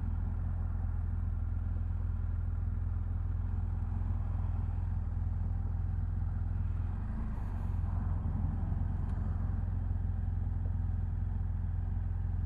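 BMW F800GS motorcycle's parallel-twin engine idling steadily while the bike stands parked.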